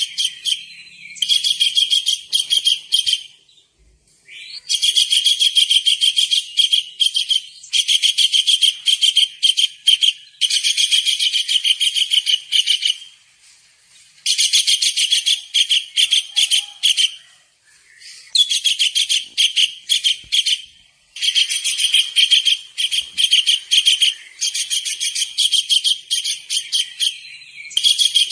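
Tengkek udang (kingfisher) calling energetically: bursts of fast, shrill repeated notes, each lasting two to three seconds, separated by short pauses, about nine bursts in all.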